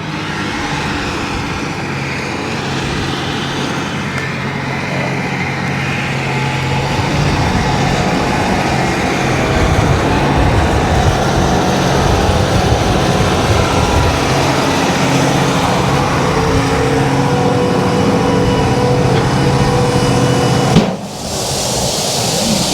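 Heavy diesel engines running steadily, with a broad rushing noise building from about a third of the way in, as the grain cart comes alongside to unload beans into the dump truck. Near the end the sound cuts suddenly to a steady hiss.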